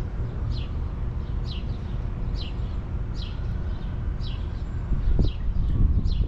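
A songbird repeating a short downward-sliding chirp, a little more than once a second, over a steady low rumble.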